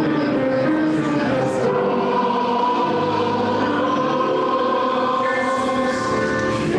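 A choir or congregation singing a hymn together in held, slow-moving notes.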